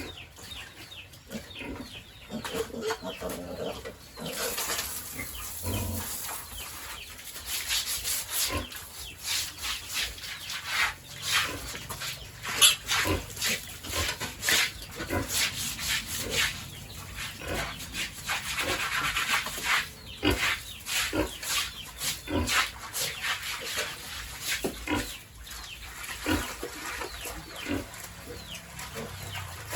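Irregular run of short scraping and rubbing strokes, many close together, getting busier about four seconds in: cleaning work on a pig pen floor.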